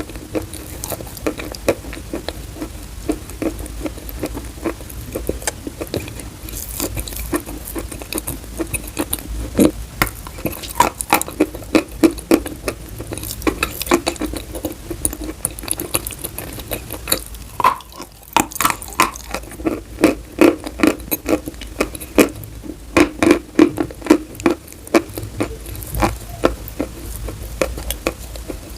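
Chalk being bitten and chewed close to the microphone: a dense, irregular run of sharp crunches and crackles, busier in the second half.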